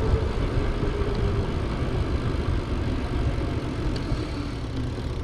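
Wind buffeting the microphone of a camera carried on a moving bicycle, a steady low rumble, with a faint hum that slowly falls in pitch.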